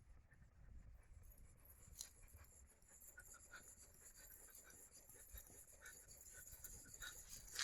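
Faint scratching of a steel fence wire being drawn back and forth across a green log to heat it by friction, with a single sharp click near the end.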